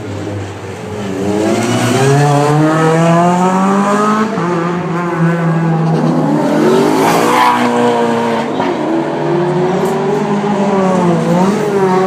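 High-performance car engines revving and accelerating, their pitch climbing and dropping back at gear changes several times. The loudest moment comes a little past the middle, as a car passes close.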